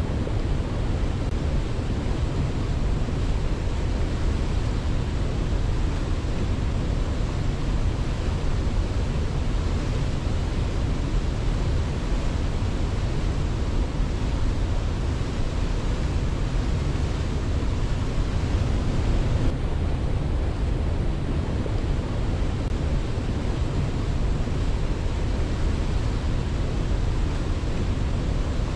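Waterfall, a steady full rushing of falling water, heaviest in the low end, with no rise and fall and no birdsong above it.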